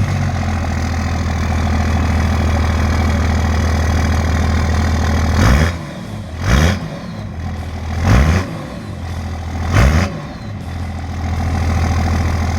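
24-valve Cummins 5.9 turbo diesel idling through a four-inch straight-pipe exhaust, pretty loud. About five seconds in it is blipped four times in quick rises and falls of pitch, then settles back to idle.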